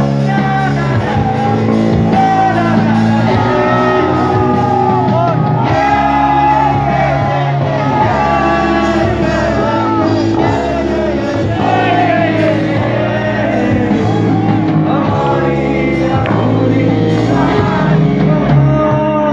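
Live band performance of a rock song, with a lead vocalist singing over amplified instruments, sustained chords and bass.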